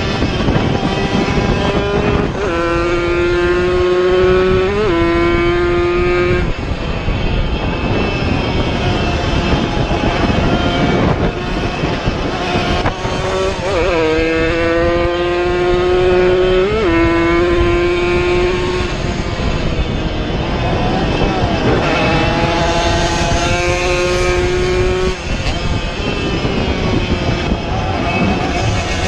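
Two-stroke racing motorcycles running at high revs on a circuit, coming past in waves, their engine pitch sliding and stepping abruptly with throttle and gear changes.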